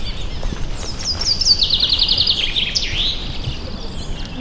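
A songbird sings one phrase: a few high notes stepping down, a quick even trill of about ten notes, then a few falling sweeps. Steady low background noise lies under it.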